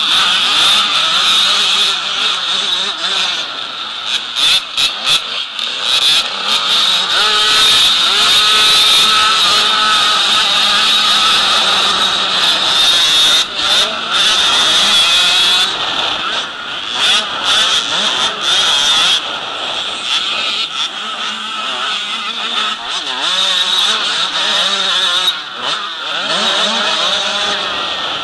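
Motocross dirt bike engines revving hard, the pitch rising and falling again and again with throttle and gear changes.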